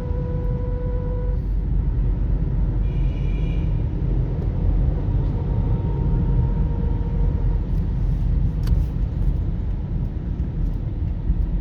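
Steady low rumble of road traffic, with a short high horn-like tone about three seconds in.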